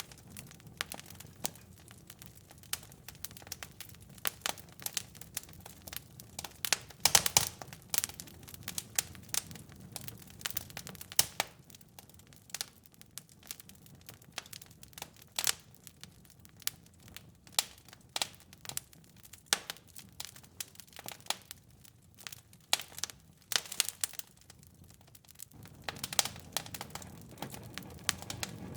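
Fireplace fire crackling: irregular sharp pops and snaps over a soft low rumble, with a burst of louder pops about a quarter of the way in.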